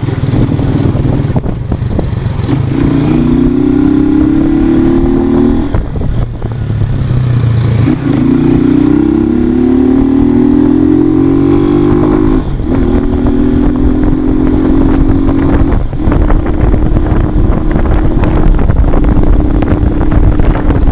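Motorcycle engine pulling hard, its pitch rising steadily and dropping back suddenly twice as it shifts up through the gears, then holding a steadier tone at cruising speed, with low rumbling noise underneath.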